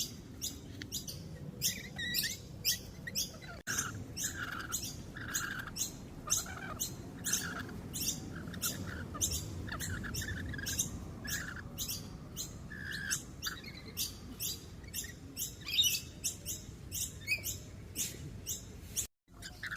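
Lorikeets chattering, a rapid string of sharp, high, screechy chirps, about two or three a second.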